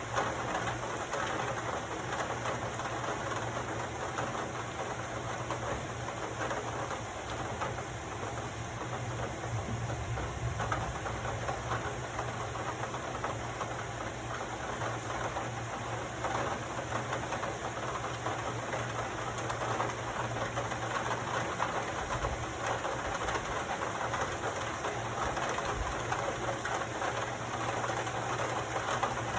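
Steady heavy rain falling at the start of a thunderstorm, heard from an open window, with a steady low hum underneath.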